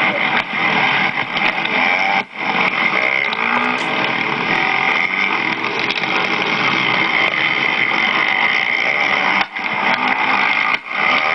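Motocross dirt bike engines running hard on the track, a loud continuous racket with brief drops in level about two seconds in and twice near the end, typical of the rider chopping the throttle or shifting.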